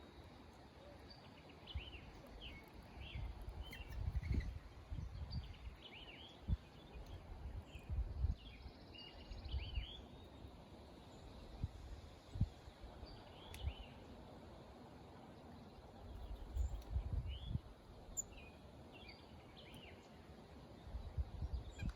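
Small birds chirping and singing in short, scattered trills, over repeated low rumbles that swell and fade.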